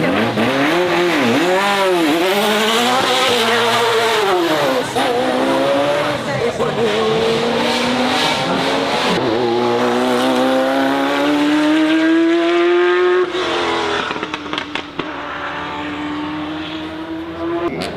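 Race car engine revving hard, its note swinging up and down several times in the first few seconds, then pulling in a long, slowly rising note that drops sharply about thirteen seconds in and settles to a steadier, quieter note.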